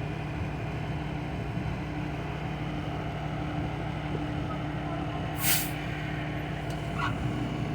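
Heavy diesel truck engine, most likely a fire engine's, idling steadily. A short sharp burst of hissing air comes about five and a half seconds in.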